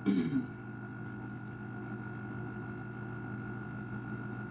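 Stepper motors of a hobby CNC machine driving the axes in a homing move, a steady whining hum with a high tone over a low drone. A brief louder sound comes right at the start.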